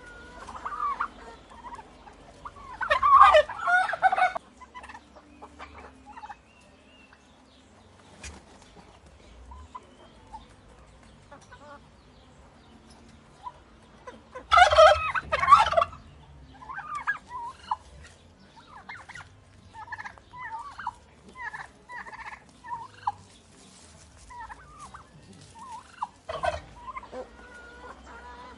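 Turkeys gobbling: two loud, rapid warbling gobbles, one about three seconds in and one about halfway through, with shorter, softer calls scattered through the second half.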